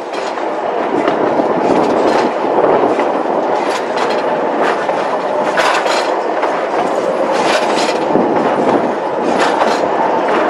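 Durango & Silverton narrow-gauge passenger train rolling along the track: a steady rumble with irregular clicks from the wheels over the rails.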